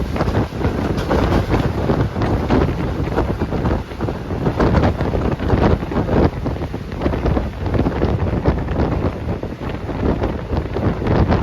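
Strong wind buffeting the microphone: a loud, continuous rumbling noise that swells and dips irregularly.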